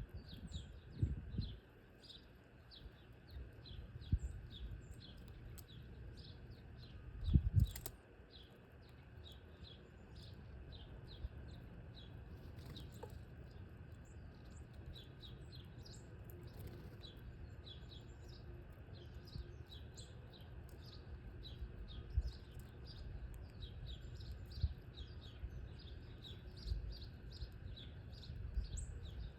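Many small birds chirping, short high chirps overlapping at several a second, with a few low thumps, the loudest about seven seconds in.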